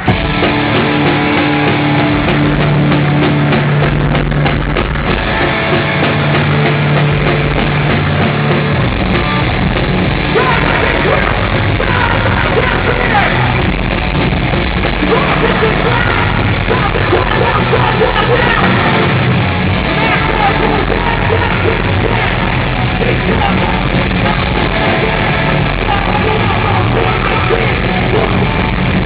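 A heavy rock band playing live and loud, with yelled vocals over the music; the song kicks in at the very start.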